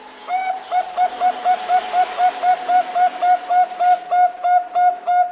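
Zebra dove (Bangkok perkutut) song: a fast, even series of short cooing notes, about four a second, over a faint hiss.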